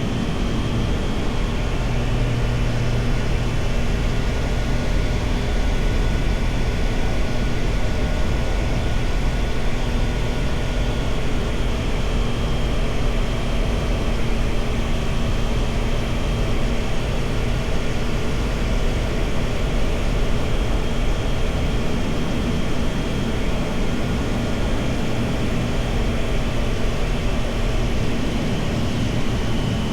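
Triumph Tiger Sport 660's inline three-cylinder engine running steadily under way, mixed with wind noise on the microphone.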